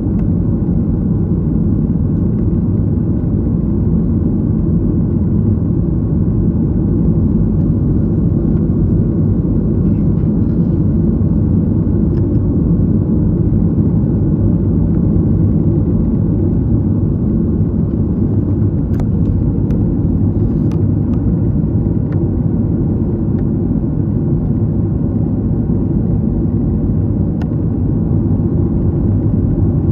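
Steady low rumble of an airliner cabin, heard from a window seat, with a few faint clicks in the second half.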